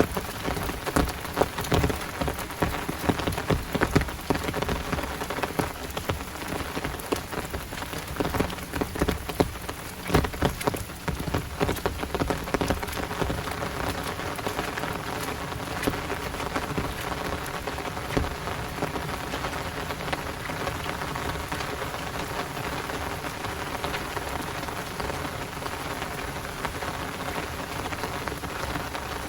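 Heavy rain falling in a downpour, with many sharp, close drop hits in the first dozen seconds, then settling into a steadier hiss.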